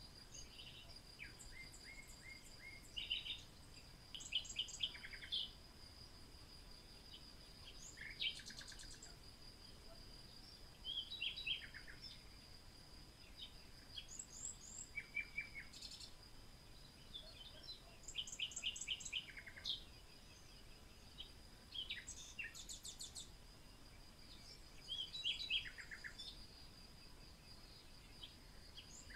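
Birds chirping and trilling in short phrases, one after another, over a steady high-pitched tone like an insect's drone.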